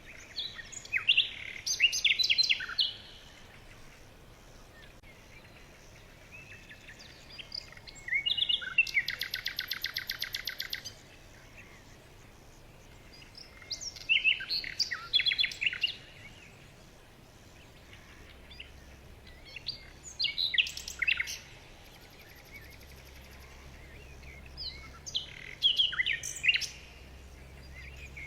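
Birds chirping in short bursts separated by quiet gaps, with a fast, even trill of repeated notes about a third of the way through.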